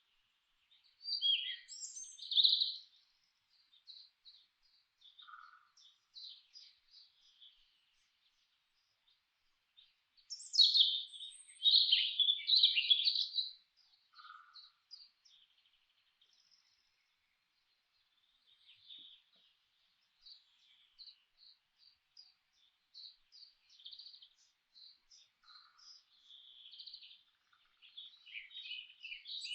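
Songbirds singing and chirping: a loud burst of song about a second in and a longer, louder song passage near the middle, with scattered high chirps between and a short, lower note repeated every several seconds.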